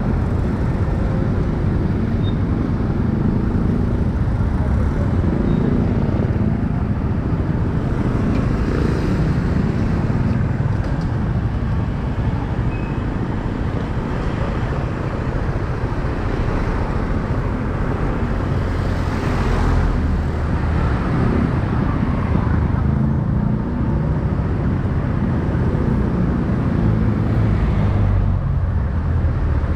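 Steady running of a motorcycle riding through city streets, with the engine and surrounding road traffic heard together. A brief swell of noise comes about two-thirds of the way through.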